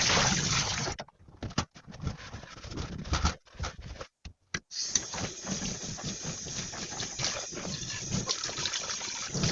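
Water running and splashing in a sink. It cuts in and out several times, then runs steadily from about five seconds in until it stops near the end.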